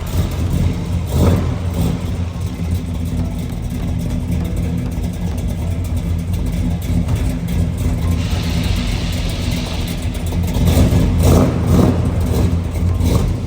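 Classic muscle car's engine idling with a steady low rumble, revved briefly about a second in and again near the end.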